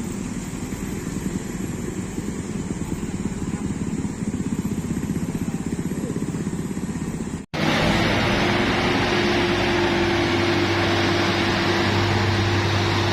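Truck engine running with a rough, pulsing note. After a sudden cut about halfway through, a steadier engine hum with a low held tone.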